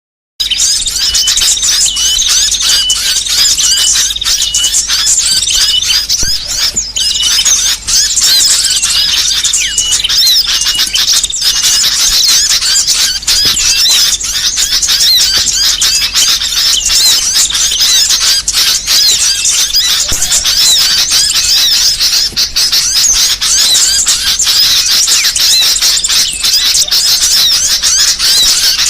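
A dense chorus of many small songbirds chirping and twittering, fast high-pitched calls overlapping without a break: a mixed small-bird lure and song-training recording.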